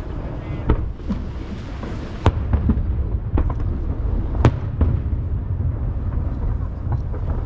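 Aerial fireworks bursting over the sea: a continuous low rumble of booms, broken by sharp cracks every second or so, the loudest about four and a half seconds in.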